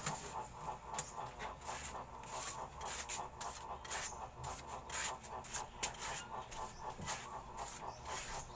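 Rapid, irregular scraping and clicking, several short strokes a second, as in hands-on work on a sink.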